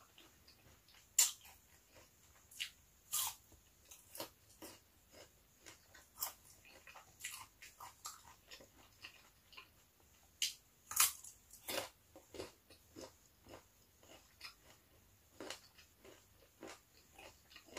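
A person chewing and biting food close to the microphone: irregular wet mouth smacks and small crunches, sharpest about a second in and again around eleven seconds.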